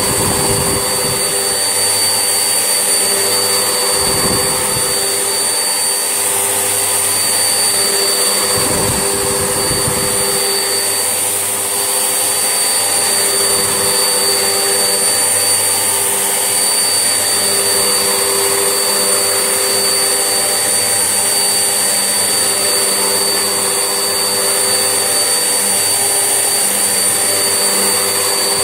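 Vax Essentials vacuum cleaner running steadily while hoovering, a constant motor drone with a thin high whine. A few short low rumbles come through, about 4 and 9 seconds in.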